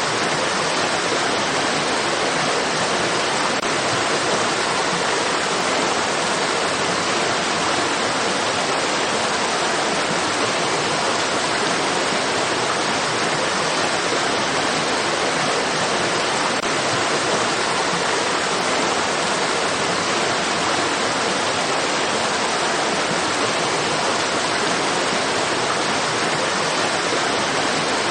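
Flowing stream water rushing in a steady, unbroken wash, used as continuous white noise.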